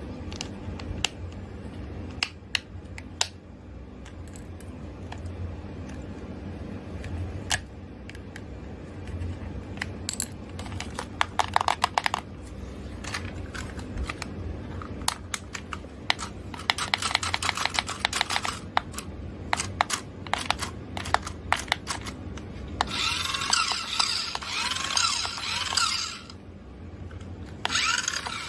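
Sharp clicks and rattles of small plastic toy vehicles and their packaging being handled, coming thick and fast in a run past the middle and in a louder, denser stretch near the end.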